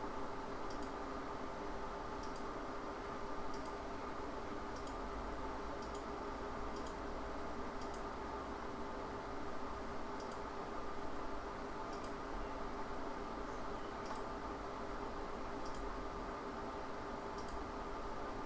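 Computer mouse clicking, short sharp clicks at an uneven pace of about one a second, over a steady low electrical hum.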